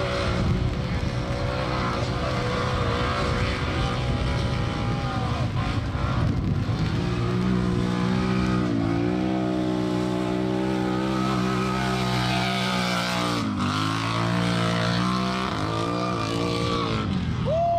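Racing ATV engines running hard on a short dirt track, their pitch holding high and then dropping sharply several times as the riders come off the throttle and back on.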